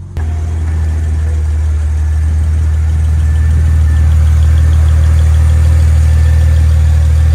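BMW 135i's turbocharged straight-six idling steadily. It gets abruptly louder just after the start, then grows slowly louder still.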